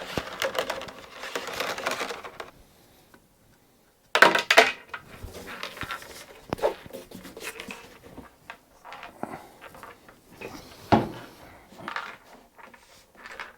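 Workbench handling noises: scraping and rustling, then a sharp clatter just after four seconds and scattered clinks and knocks of hard parts and tools being picked up and set down.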